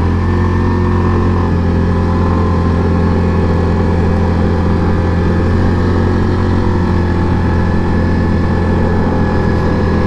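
Yamaha Grizzly 700 ATV's single-cylinder four-stroke engine running at a steady pace while riding along a trail.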